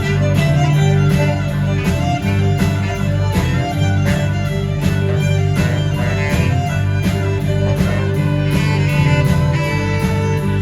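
Live band playing an instrumental passage, with bass and a steady drum beat under the lead instruments.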